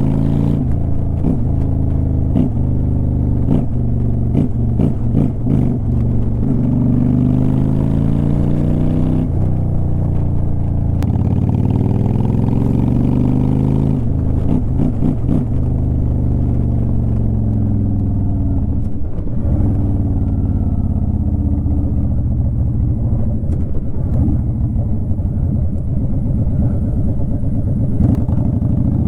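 2009 Honda Shadow Aero 750's V-twin exhaust under way, its pitch climbing as it accelerates and dropping at gear changes or when the throttle is eased, several times over.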